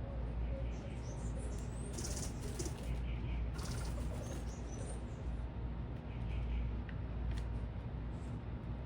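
Small birds at a feeder: two short bursts of wing flutter about two and three and a half seconds in, with a few brief high chirps, over a steady low city rumble.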